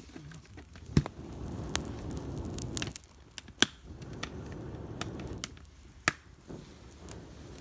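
Small open campfire of damp branches snapping and popping sharply about five times, with two long low rushes of air a couple of seconds each; the wet wood keeps the fire struggling to catch.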